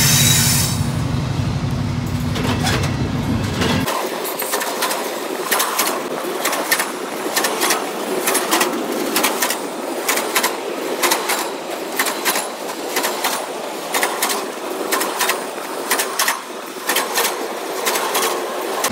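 A train's low rumble for the first few seconds, then it cuts off abruptly to thinner station ambience with frequent short clicks and knocks.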